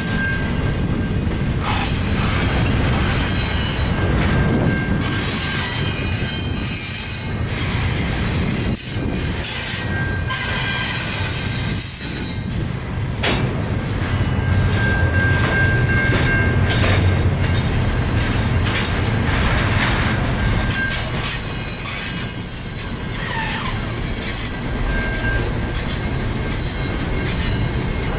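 Double-stack intermodal container train rolling steadily past, the wheels and cars rumbling on the rails, with a thin high wheel squeal that comes and goes.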